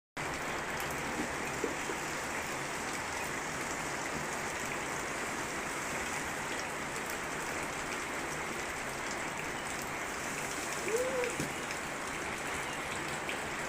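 Steady rain falling, an even hiss that starts suddenly and holds at one level throughout.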